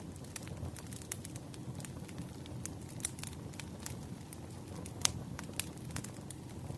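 Wood fire burning: a steady low rumble of flames with frequent irregular crackles and pops, a louder pop about five seconds in.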